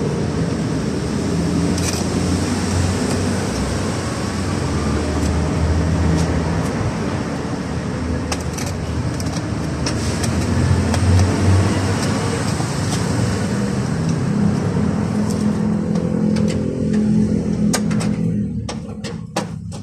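A motor vehicle engine running, a steady low hum that dies away near the end, followed by several sharp clicks.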